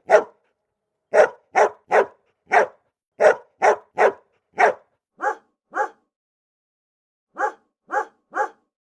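A dog barking: about fourteen short, sharp barks, mostly in quick runs of two or three, with a pause of about a second and a half near the end before three more barks.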